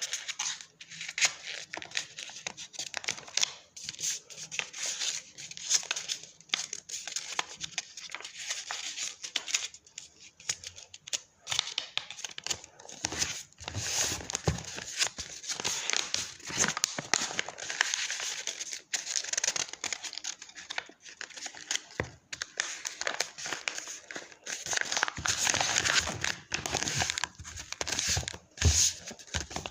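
A sheet of paper being folded and creased by hand: irregular rustling and crinkling with short crackles as the folds are pressed down.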